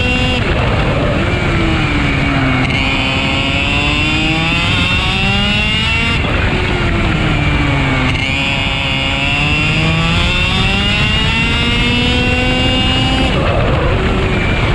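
Racing kart's two-stroke engine at full throttle, heard onboard. Its pitch climbs steadily along the straights and drops sharply under braking three times: about half a second in, about six seconds in, and near the end.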